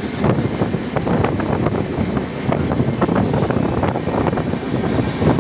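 Train running noise from the open doorway of a moving Mumbai suburban local train: steady wheel-on-rail noise with irregular clattering, and wind on the microphone. A long-distance express running on the next track adds its own wheel noise.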